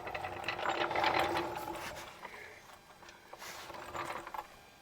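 Floor jack being rolled into position, its wheels rattling and clicking, busiest in the first two seconds and then quieter.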